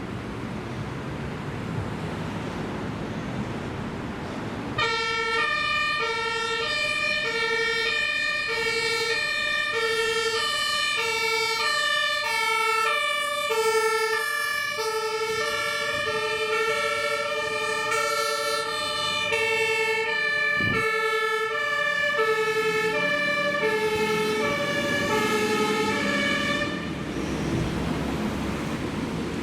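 German fire engine two-tone horn (Martinshorn) sounding, alternating steadily between a low and a high tone as the vehicle drives past on an emergency run. It comes in about five seconds in and cuts off a couple of seconds before the end, leaving engine and road noise.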